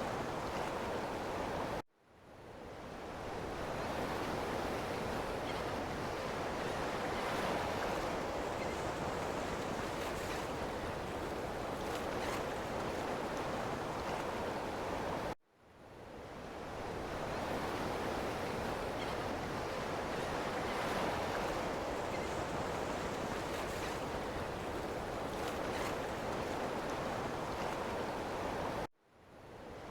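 Ocean surf, a steady rushing wash of waves. It cuts out abruptly three times, about every thirteen and a half seconds, and swells back in over a second or two each time.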